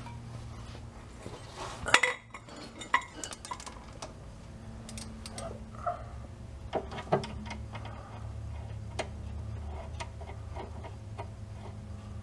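Hand tools clinking and clicking on metal while nuts are fitted to a new rear sway bar link, with a sharp metallic knock about two seconds in and scattered clicks after it. A steady low hum runs underneath.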